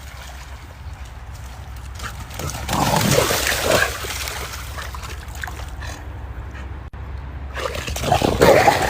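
A dog splashing about in water, with sloshing and splashing loudest about three seconds in and again near the end, over a steady low hum.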